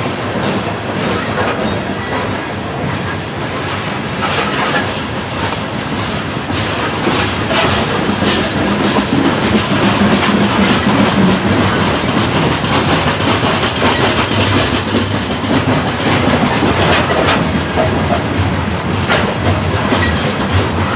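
Loaded coal hopper cars of a long freight train rolling past, loud, with steel wheels clacking irregularly over the rail joints.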